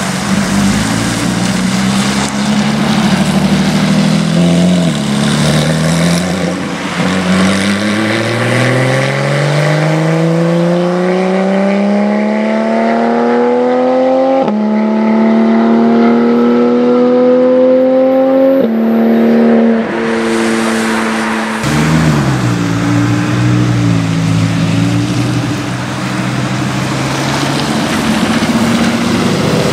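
Sports car engine accelerating hard through the gears: its pitch climbs steadily, with sharp drops at two upshifts about halfway through and a few seconds later. After that another car's engine runs lower and wavers as it rolls slowly past.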